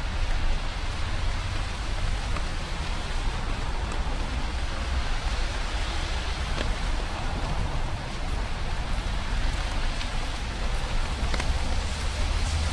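Steady rain falling, an even hiss with scattered single drops ticking, over a low rumble.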